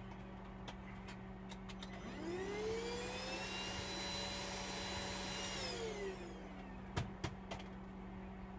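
A small electric motor spins up with a rising whine, runs steadily for about two seconds, then winds down, followed by two sharp clicks near the end.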